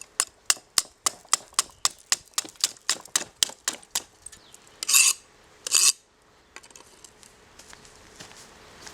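Small hammer tapping on a block of clear ice in quick, even strokes, about three a second, for some four seconds. Then come two short, sharp scraping bursts about a second apart, followed by faint light clinks.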